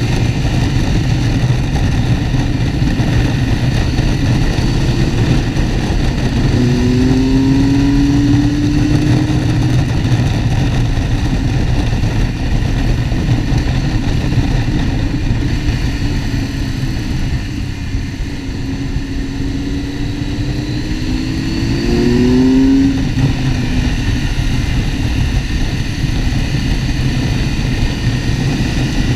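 Motorcycle engine running under way, its pitch climbing as it accelerates near the start, again around seven seconds in and around twenty-two seconds in, over a steady low rushing noise.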